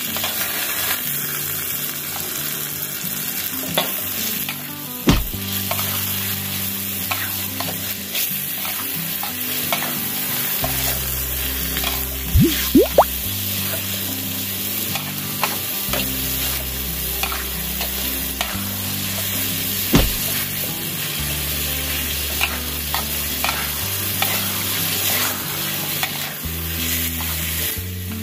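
Chicken pieces sizzling as they fry in curry paste in an aluminium wok, stirred with a metal spatula that scrapes and knocks against the pan now and then.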